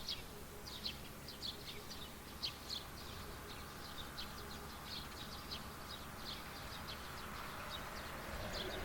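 Small birds chirping: short, high calls in quick succession, several a second, over a low rural background. A rushing noise swells near the end.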